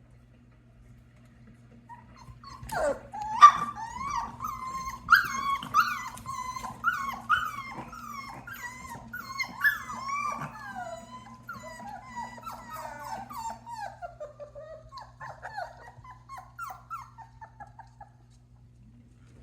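Australian Shepherd puppies whining: a long run of short, high-pitched, mostly falling whines, several a second. It starts about two and a half seconds in and trails off near the end, over a steady low hum.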